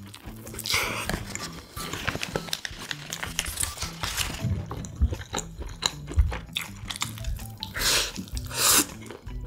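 Close-miked eating: bites into a soft toast sandwich and wet chewing with small mouth clicks, the biggest bite sounds about a second in and again near the end, over quiet background music.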